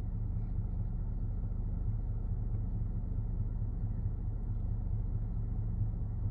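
Steady low rumble with no distinct taps or calls.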